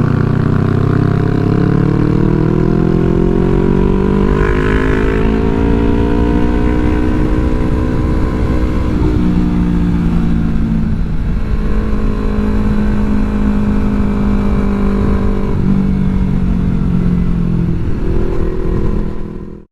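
Yamaha R3 motorcycle's parallel-twin engine under way: its pitch climbs slowly for about nine seconds, drops suddenly as the throttle is closed or a gear is changed, then holds steady with another shift in pitch a few seconds later. The sound cuts off abruptly near the end.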